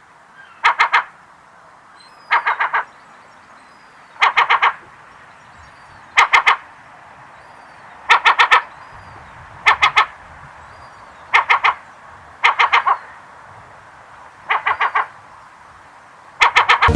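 Herring gull calling in loud bursts of three or four quick notes, a burst about every couple of seconds. Fainter, higher calls of other gulls and a steady hiss sit underneath.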